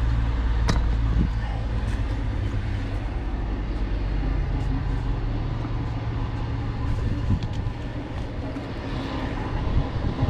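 Semi truck's diesel engine idling steadily, with a sharp click under a second in and a few lighter knocks.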